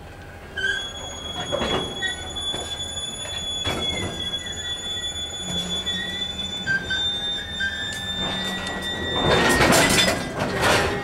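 Loaded freight hopper wagons rolling slowly past on steel wheels, with steady high-pitched wheel squeal and scattered clanks and knocks from the wheels and couplings. The clatter grows loudest near the end.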